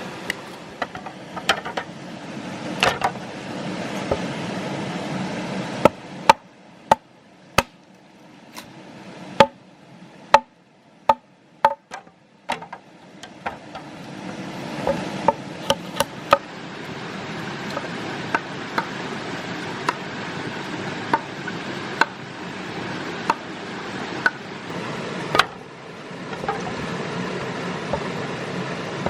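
Irregular sharp chops and knocks of a tool striking wood, some blows louder than others, over a steady rushing background that drops away for several seconds in the middle.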